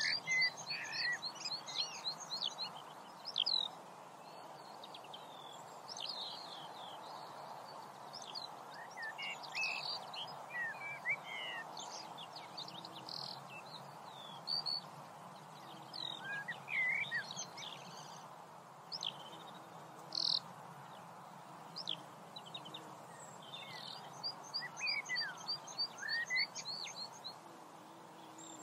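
Small birds chirping and singing, with a fast rattling trill near the start and again near the end, over a steady background hiss.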